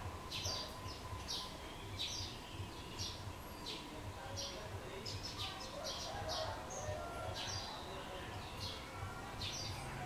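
Small wild birds chirping: short, high chirps repeating about twice a second, over a low steady rumble of background noise.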